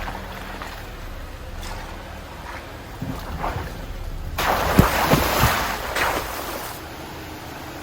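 Jeep Wrangler driving through a creek on the trail: a steady low rumble, then about halfway through a loud rush of splashing water lasting about two seconds, with a few knocks in it.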